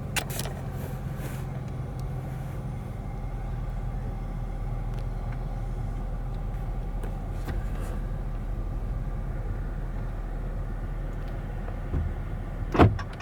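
2019 Dodge Charger GT's 3.6-litre V6 idling steadily, with two sharp knocks near the end.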